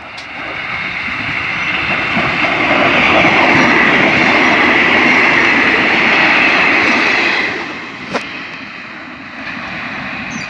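Passenger train passing close by at speed, its wheels running on the rails. The noise swells as it approaches, stays loud for a few seconds while the carriages go by, then drops off suddenly about seven and a half seconds in, with a single sharp click shortly after.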